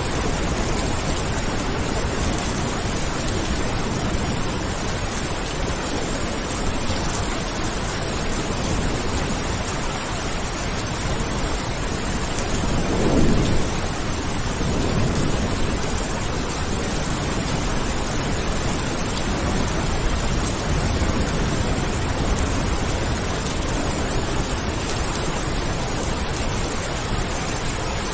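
Steady, heavy rain with a low roll of thunder that swells briefly near the middle, followed by a weaker second rumble.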